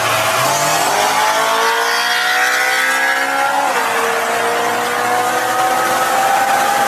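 Car engine accelerating hard, its pitch climbing, then dropping sharply about four seconds in, as at a gear change, and climbing again.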